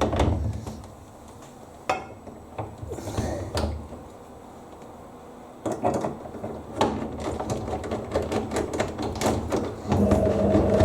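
Scattered clicks and knocks of a screwdriver, screws and the dryer's door parts being handled while the door is screwed back on. A steady hum comes in near the end.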